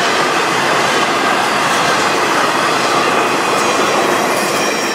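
Empty intermodal flatcars of a freight train rolling past, their wheels running on the rails in a steady, dense rumble and rattle. The sound begins to fade near the end as the last car goes by, and a thin high tone comes in.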